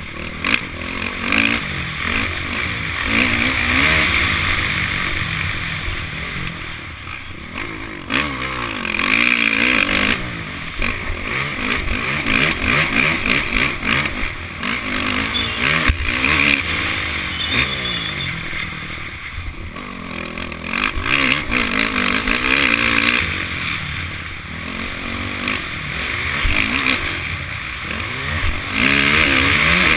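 Honda CRF450 motocross bike's single-cylinder four-stroke engine revving hard and backing off again and again as it is ridden around the track, its pitch rising and falling every second or two.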